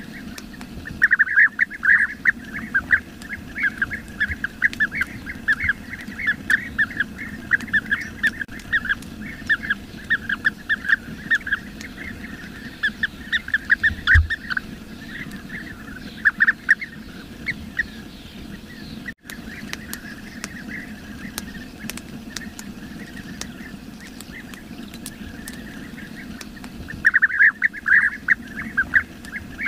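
Bee-eaters calling: rapid runs of short, bright calls in dense bouts, thinning out in the middle and picking up again near the end, over a steady low background hum.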